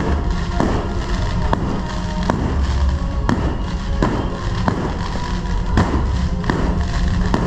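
Aerial fireworks bursting overhead: about nine sharp bangs, roughly one a second, each trailing a short echo. Music plays steadily underneath.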